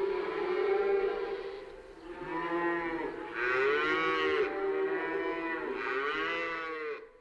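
Cattle mooing: a run of about five drawn-out calls, each rising and falling in pitch, cut off suddenly near the end.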